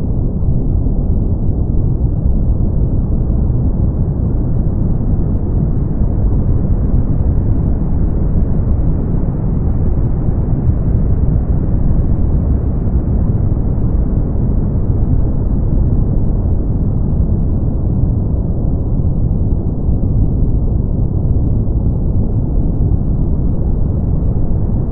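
Brown noise: a steady, deep rushing hiss with most of its strength in the low end and little above the mid range. It is unchanging throughout.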